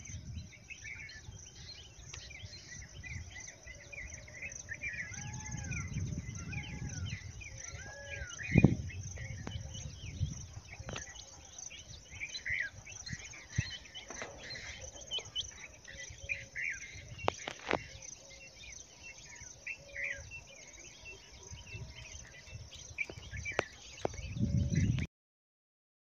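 Several birds chirping in quick short calls, with one bird giving a few arching whistled notes about a second apart. Low rumbles and a few sharp clicks on the microphone come and go, and the sound cuts off just before the end.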